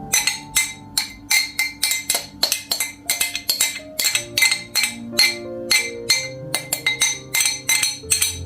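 A knife chopping on a cutting board, about three strokes a second, over soft background music.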